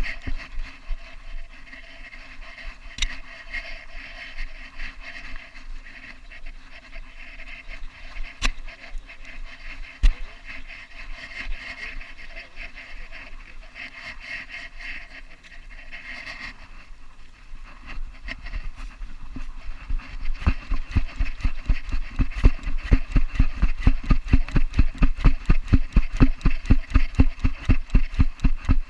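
Belgian Malinois panting right at its body-worn camera: faint at first, then from about two-thirds of the way through loud and regular, about four breaths a second.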